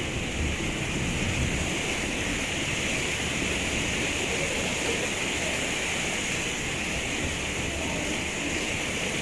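Heavy, torrential rain falling in a steady hiss.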